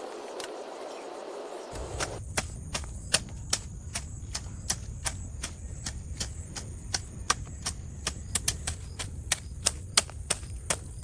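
A run of sharp clicks or taps, irregular, about two to three a second.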